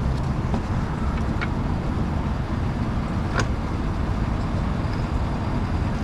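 Steady low rumble of an idling vehicle engine, with a couple of faint clicks.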